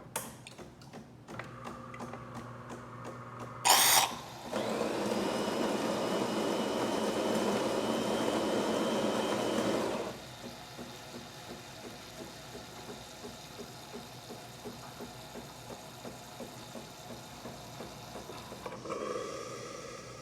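DeLonghi EAM4500 Perfecta automatic espresso machine working through a brew cycle. After a few clicks and a short loud noise, its built-in grinder runs steadily for about six seconds, then stops. A regular ticking of about two a second follows as the machine brews, growing louder briefly near the end.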